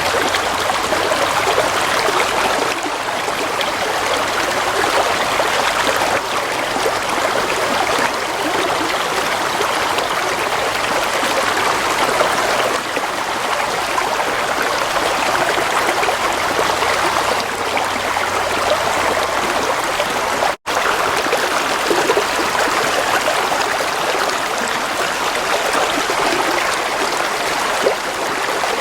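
Gently flowing water running steadily, with a split-second dropout about two-thirds of the way through.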